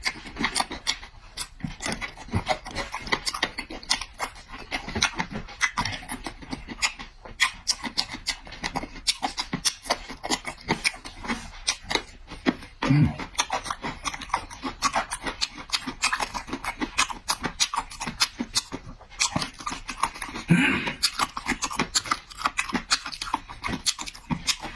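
A person chewing food noisily close to the microphone, with many quick, irregular wet smacking clicks. There are two short low vocal sounds, one midway and one toward the end.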